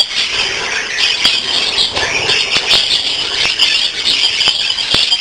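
A flock of budgerigars chattering: a dense, steady, high-pitched twittering with scattered sharp clicks.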